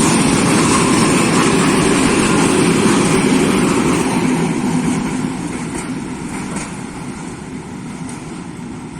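Diesel train running past, a loud, steady engine rumble with wheel and rail noise that fades gradually over the last few seconds as it moves away.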